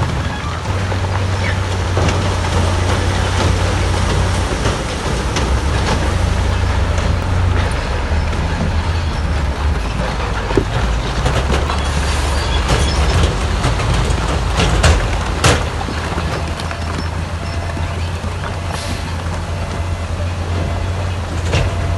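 Heavy diesel earthmoving machinery running steadily under load, with a handful of sharp knocks or clanks, the loudest about 15 seconds in.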